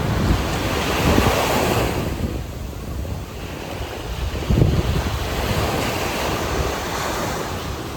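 Sea waves washing onto a sandy beach, surging twice, with wind buffeting the microphone.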